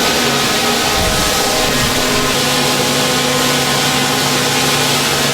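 Steady, loud workshop machine noise: an even hiss with a low hum underneath, no breaks or strikes.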